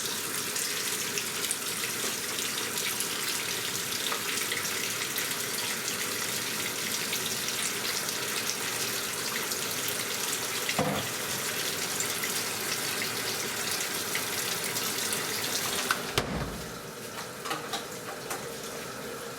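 Water running into a washing machine's tub as it fills: a steady rush of water that stops about sixteen seconds in.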